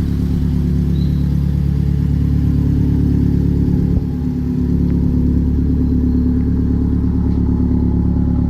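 Modified 2017 Subaru WRX STI's turbocharged flat-four idling steadily through an aftermarket cat-back exhaust.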